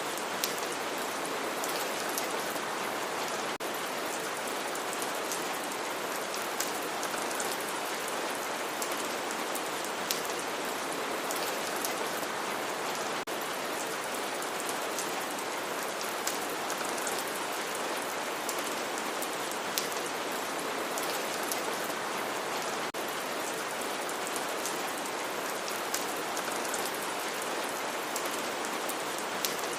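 Steady rain falling, with scattered sharper drops ticking on a surface.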